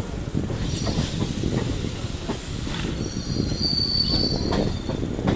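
Suburban EMU train running on the track, heard from inside the coach: a steady low rumble of wheels and carriage, with a brief high-pitched wheel squeal about three and a half seconds in.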